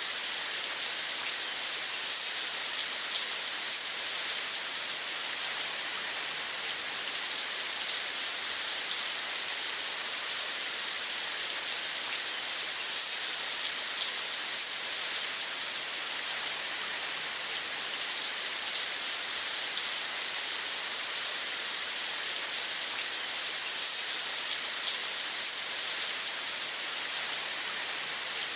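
Steady rain: an even hiss with a fine patter of drops that never lets up.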